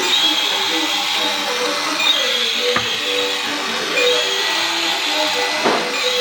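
A small motor whirring steadily under a simple electronic tune of short stepped notes, with a sharp click about three seconds in.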